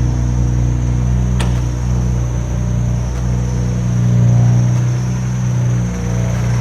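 Mitsubishi GTO's 6G72 turbocharged V6 idling steadily on a rough initial startup tune, with one sharp click about a second and a half in.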